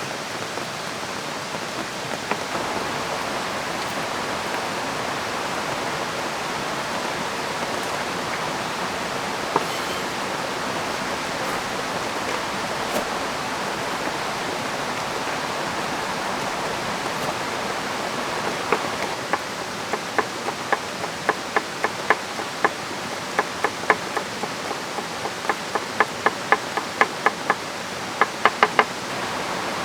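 Steady rushing of a river with rain falling. Past the middle, runs of quick sharp knocks start up and come faster near the end, like chopping.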